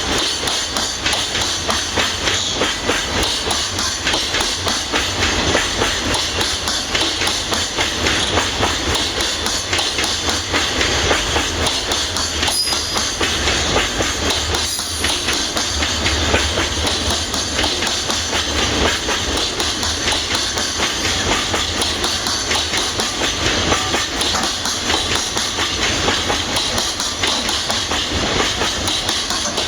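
Freight train wagons rolling past, their wheels clattering steadily on the rails.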